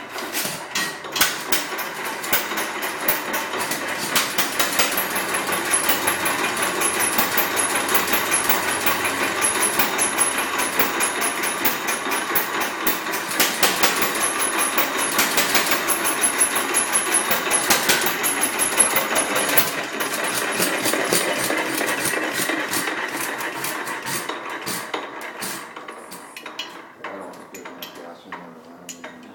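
1928 Fairbanks Morse engine running with a fast, regular mechanical clatter of knocks. It gets quieter over the last several seconds.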